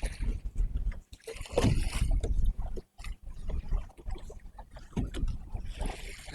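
Water lapping and splashing against a kayak's hull, with two louder splashy surges, one about a second and a half in and one near the end, over a low rumble of wind on the microphone.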